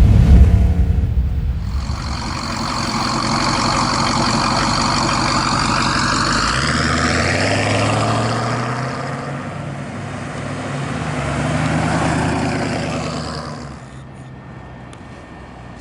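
Small-block 350 V8 of a 1950 Chevrolet Sedan Delivery running as the car drives, with the engine pitch rising as it accelerates in the middle, then fading away near the end.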